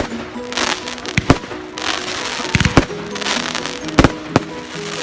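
Fireworks going off: a string of sharp bangs, about one a second and some in quick pairs, between stretches of crackling hiss. Music plays underneath.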